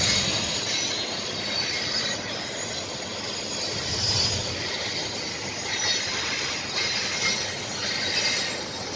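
Railroad train passing, a steady noise of rolling cars with a faint high squeal of wheels on the rails.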